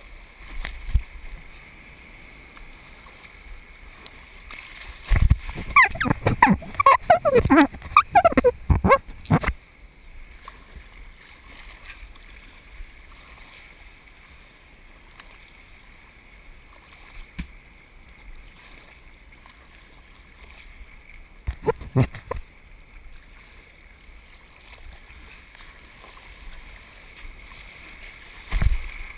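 Water around a surf kayak in the surf: a low steady wash with a faint constant hiss. About five seconds in comes a loud, choppy burst of splashing lasting about four seconds, and two shorter splashes follow later.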